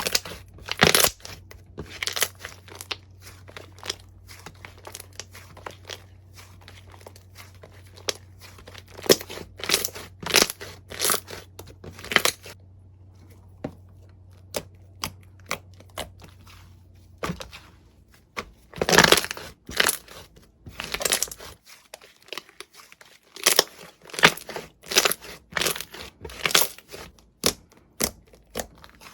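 Crunchy slime being squeezed and pressed, giving quick irregular crackles and crunches, with two short lulls.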